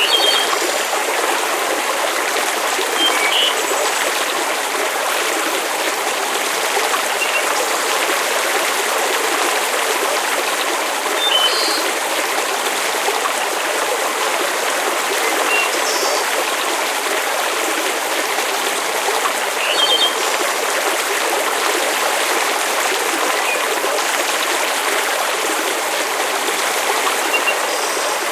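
Steady, unbroken rushing of water, a constant hiss like a running stream or heavy rain, with a few brief high chirps dotted through it.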